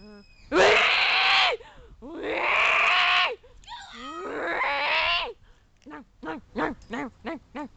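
A voice making loud, harsh screeching cries, two of them about a second long each, then a softer wavering cry, then a quick run of short pitched yelps, about three a second.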